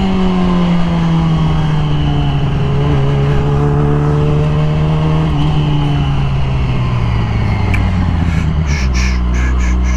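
Yamaha R6 sportbike's inline-four engine, through a Graves aftermarket exhaust, coasting down with its pitch falling steadily as the bike slows. Near the end it settles into a steady idle as the bike comes to a stop.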